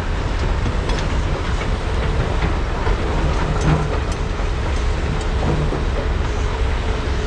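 Large hydraulic mining excavators' diesel engines running steadily with a low drone while digging and loading, with scattered clanks and knocks.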